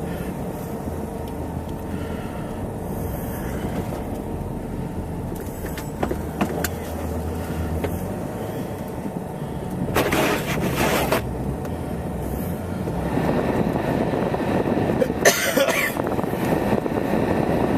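Car interior noise while driving: a steady low engine hum and tyre rumble that grows louder about two-thirds of the way through, with two brief louder noises, one around the middle and one near the end.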